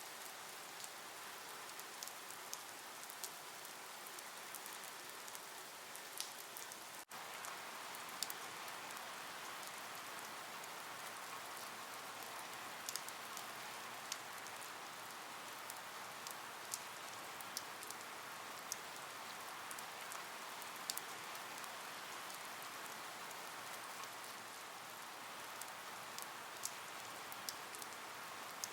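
Steady rain falling on a surface: an even hiss with many scattered sharp drop ticks. The sound cuts out for an instant about seven seconds in.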